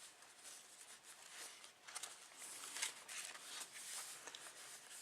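Faint rustling of paper and card stock as the pages of a handmade paper journal are handled and turned, with soft irregular brushing strokes.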